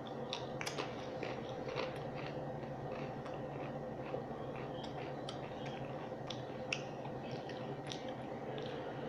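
Potato chips being bitten and chewed close to the microphone: irregular crisp crunches over a steady low hum.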